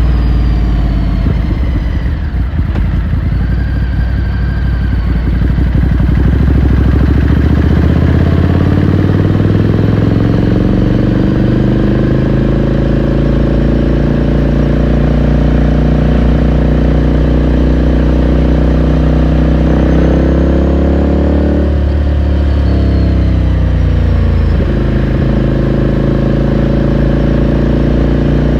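Ducati Scrambler Sixty2's 399 cc air-cooled L-twin heard from the saddle while riding. It eases off over the first few seconds, then pulls up with a steadily rising pitch, drops sharply in pitch a little over two-thirds of the way through, and then runs on at a steadier pitch.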